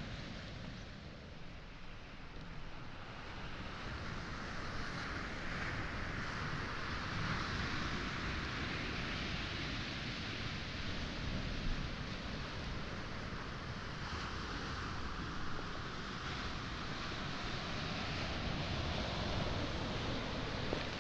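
Waves washing onto a pebble and boulder shore at high tide, the surf swelling about four seconds in and staying steady, with low wind buffeting on the microphone.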